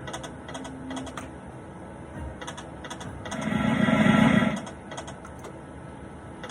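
Light, uneven clicking of slot-machine button presses, with a louder rushing swell lasting about a second from around three and a half seconds in.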